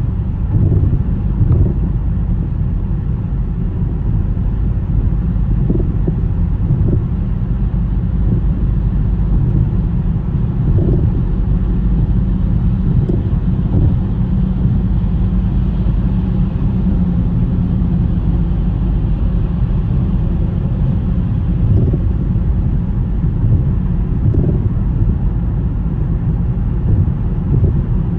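A car driving on a snowy road: a steady low rumble of road and wind noise, with a few faint knocks.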